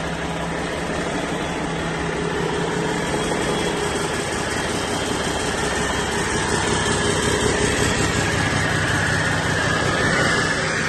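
2012 Cummins ISX15 15-litre inline-six diesel engine running steadily on a test run, with a high whine over its drone that wavers near the end.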